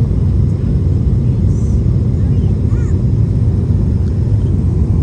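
Steady cabin rumble of an Airbus A220 in flight on approach: the engines and the rush of air around the fuselage, heard from a passenger seat.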